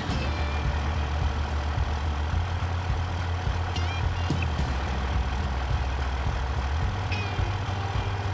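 Diesel truck engine running with a steady low rumble. Two short high chirps come through it, about midway and near the end.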